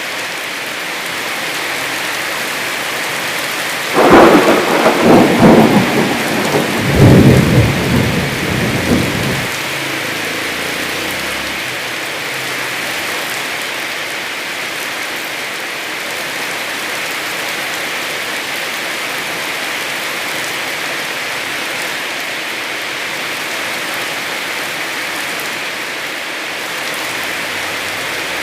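Heavy rain falling steadily, with a loud thunderclap about four seconds in that rolls and rumbles for some five seconds before dying away under the rain.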